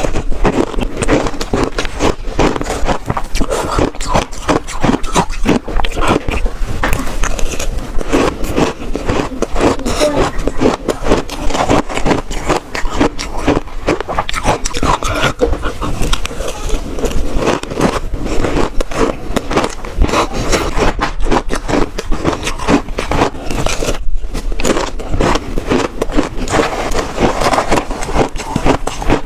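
Close-miked crunching of shaved ice being bitten and chewed: dense, irregular crackly crunches one after another, with a brief pause about four-fifths of the way through.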